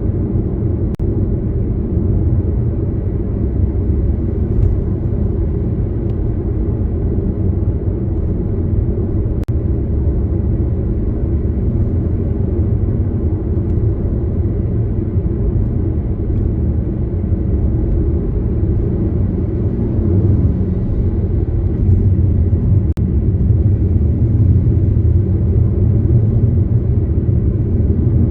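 Car on the move: a steady low rumble of road and engine noise, getting a little louder about two-thirds of the way through.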